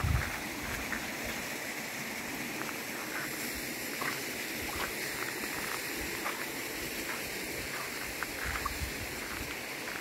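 Running water: a steady rush with scattered small clicks and gurgles.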